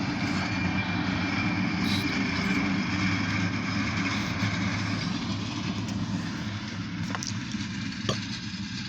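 Diesel locomotive engines of a light engine move running steadily with a low, even drone as the locomotives pass, easing off slightly near the end. Two short sharp clicks come late on.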